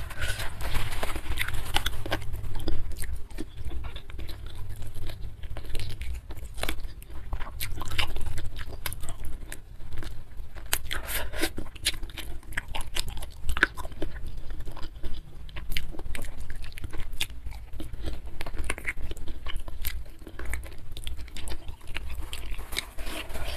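Close-miked chewing and biting as a person eats soft sweet-spicy chicken feet: wet mouth sounds with many small sharp clicks and crunches throughout.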